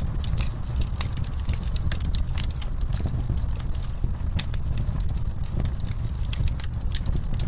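Wood fire in a fireplace crackling, with many irregular sharp pops, over the steady rushing of falling rain.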